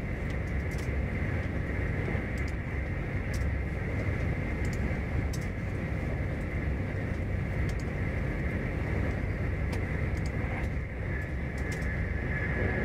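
Cabin running noise of an SJ X40 double-deck electric train at speed: a steady low rumble of wheels on rail under a constant higher hiss, with scattered faint clicks.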